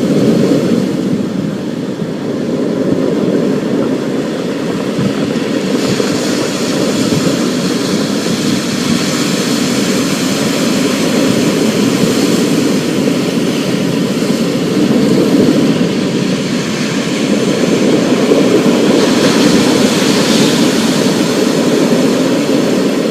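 Thunderstorm ambience: a steady wash of rain under a continuous low rumble that swells and eases, without sharp cracks.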